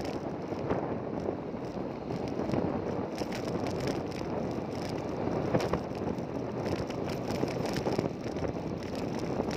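Steady running noise of a moving motor vehicle with wind buffeting the microphone, and a few light knocks scattered through it.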